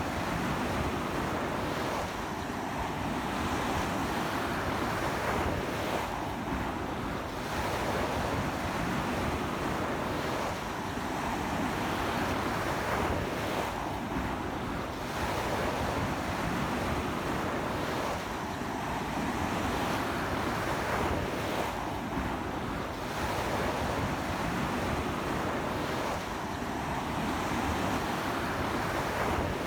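Ocean surf breaking and washing up a beach in a continuous dense wash that swells and eases every few seconds, with strong sea wind buffeting the microphone.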